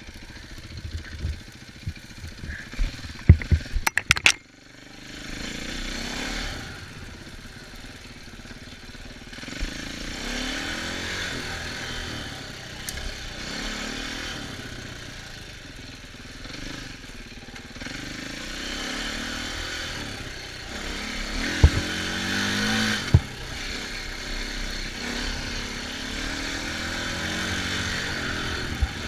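Dirt bike engine revving up and down as the bike is ridden along a trail. There is a cluster of sharp knocks about four seconds in, and two more knocks a second and a half apart about three-quarters of the way through.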